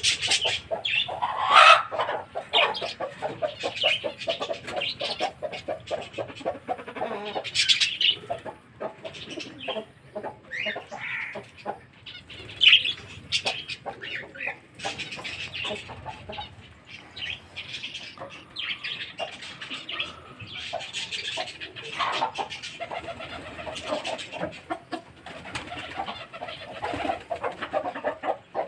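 A mixed flock of birds at feed, with pigeons among them: chirps and calls come in a steady stream, with many short clicks and the flap of wings.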